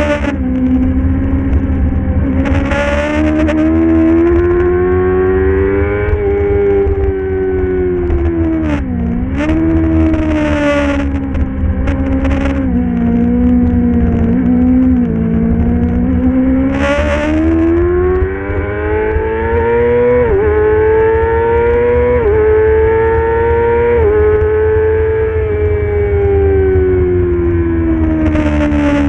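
Middleweight superbike's engine running hard under race conditions, its pitch rising and falling with throttle and gear changes. There is a sharp dip about nine seconds in, and a run of quick steps in pitch a little past the middle.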